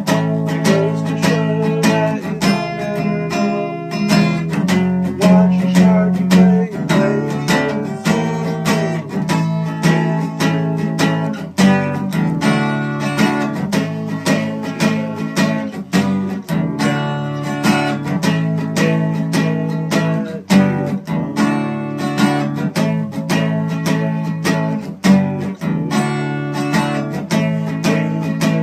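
Acoustic guitar played without singing: strummed and picked chords with a steady rhythm.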